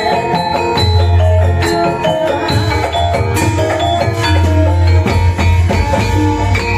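Javanese gamelan music: bronze metallophones ringing out interlocking struck melodies over a drum, with deep low notes sounding at intervals.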